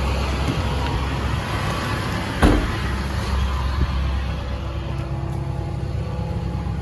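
6.6L LLY Duramax V8 turbo-diesel idling steadily with the PTO engaged to drive the boom's hydraulics, with a single sharp knock about two and a half seconds in.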